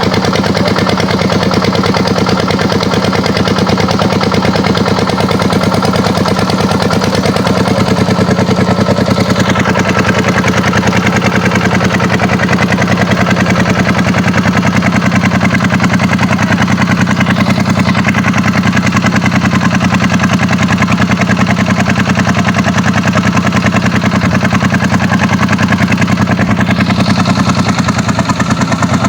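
Kubota tractor's diesel engine running steadily, a little louder from about eight seconds in.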